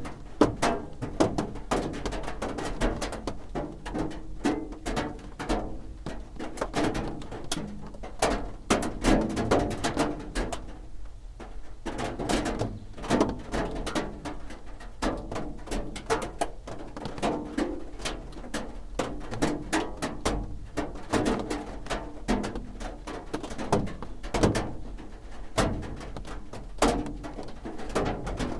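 Raindrops drumming on a roof: an irregular patter of close, separate drop strikes, several a second, with a hollow knocking ring.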